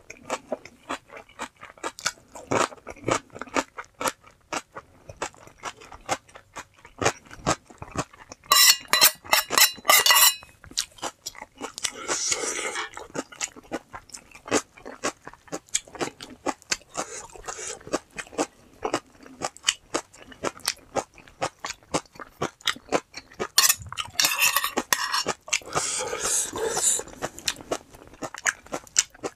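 A person eating ramen and chonggak (ponytail radish) kimchi: many quick, irregular crunches and chewing clicks, with a few longer, louder noisy stretches about nine, twelve and twenty-five seconds in.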